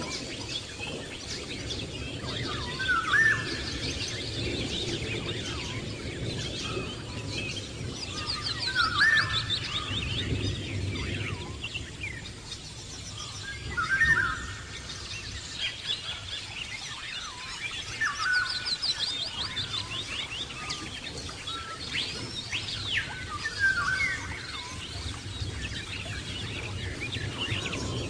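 Birds chirping and singing: a short chirped phrase recurs about every five seconds, with fast high trills in between, over a low steady background noise.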